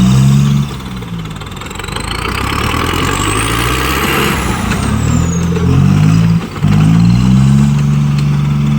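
Tractor diesel engine revving hard under load in a tractor pull. It drops off about half a second in, then comes back and holds high revs near the end, with a short dip in between.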